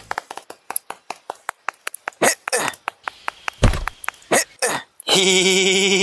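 Dubbed-in cartoon sound effects: a run of quick clicks and short swooping chirps, then a sustained warbling buzzy tone about five seconds in.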